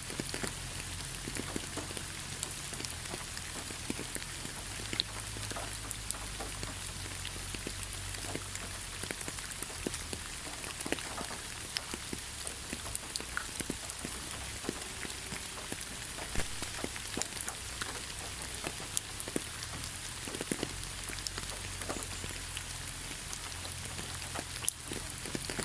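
Steady rain falling in a forest, with many separate drops tapping close by throughout.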